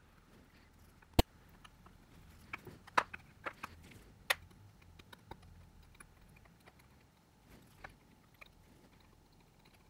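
Scattered sharp clicks and taps of small tools and phone parts being handled during a smartphone teardown. The loudest click comes about a second in, and a cluster follows around three to four seconds in.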